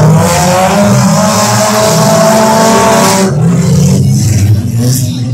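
Car engines revving hard, the pitch climbing for about three seconds, then dropping off suddenly, with engines running on at lower revs.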